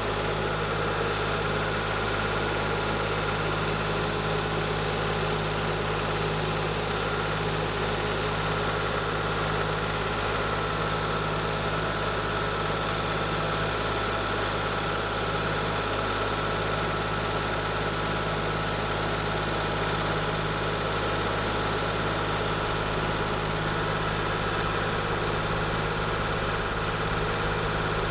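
An engine running steadily at an even idle, with a constant low hum that does not change pitch.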